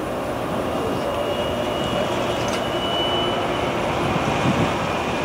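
Diesel locomotives leading a CSX double-stack intermodal freight train, running steadily as they approach: a constant engine and wheel rumble.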